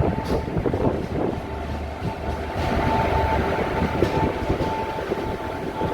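Passenger train running, heard from aboard: steady rumble of wheels on rail with scattered knocks, and a thin high whine that comes and goes in the second half.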